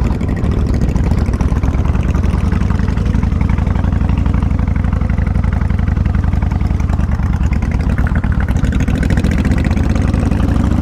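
A Kawasaki Vulcan 1500 Classic's V-twin engine running steadily, with an even pulsing beat.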